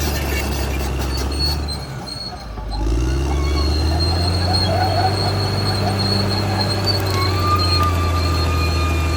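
CAT D6R XL crawler bulldozer's diesel engine running under load; its note sags briefly about two seconds in, then climbs back up and holds steady. Thin high squeals ride over the engine, typical of a crawler's steel tracks and undercarriage.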